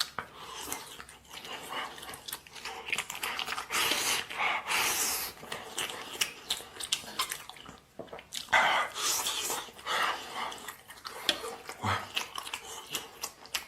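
A person chewing a mouthful of braised spare-rib stew close to the microphone: irregular wet chewing and mouth sounds with frequent sharp clicks.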